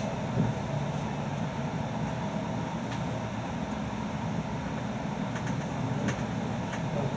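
Steady rumble of an InterCity passenger train running along the track, heard from inside the carriage, with a few faint clicks in the second half.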